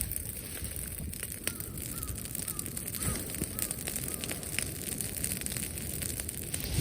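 Wood bonfire crackling, with scattered sharp pops. About a second and a half in, a bird gives a run of about seven short calls.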